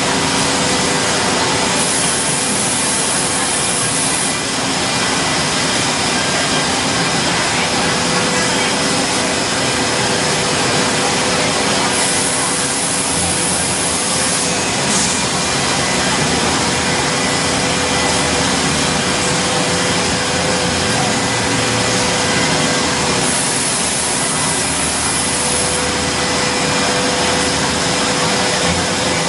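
CNC wood router running and cutting wood: a steady machine drone with a constant whine from the spindle under a broad hiss. A brighter high-pitched hiss comes in three times, about 2, 12 and 23 seconds in, for two or three seconds each.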